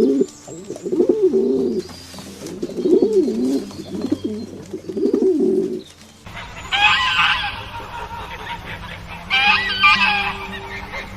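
A pigeon cooing: a run of low, rolling coos repeated over about six seconds. After a change of scene, a different, higher-pitched animal calls twice.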